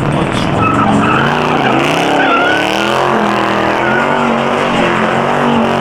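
A muscle car's V8 engine revving hard and rising and falling in pitch, with tires squealing, as in a burnout or donut at a car meet.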